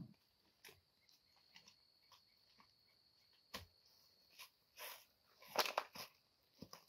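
Scattered light knocks and rustles, the loudest cluster about two thirds of the way through, over a faint, steady, high insect trill.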